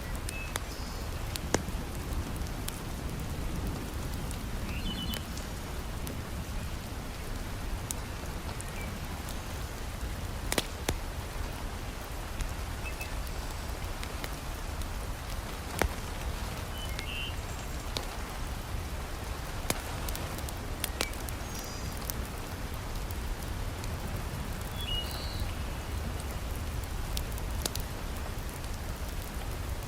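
Steady heavy rain pattering, with occasional sharp pops and crackles from a wood fire in a fireplace.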